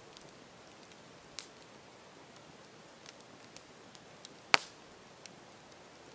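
Campfire burning: wood crackling with scattered small pops over a soft steady hiss, a louder pop about a second and a half in and one sharp, much louder pop about four and a half seconds in.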